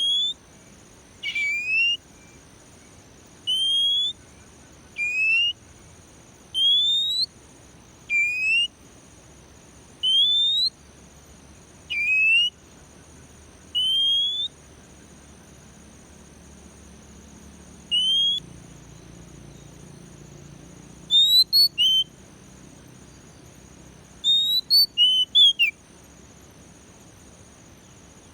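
Oriental magpie-robin singing a series of single rising whistled notes, one every one and a half to two seconds, then a quick burst of three notes and, near the end, a rapid run of about six notes.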